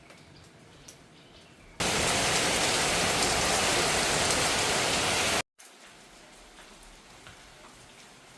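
A loud, steady rush of water, starting abruptly about two seconds in and cutting off abruptly about five and a half seconds in. Before and after it there is only faint outdoor ambience with a few small ticks.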